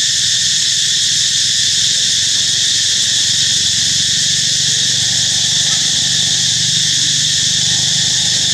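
Loud, steady chorus of insects, a continuous high buzz with no break. It runs over a low steady hum, with a few faint short chirps.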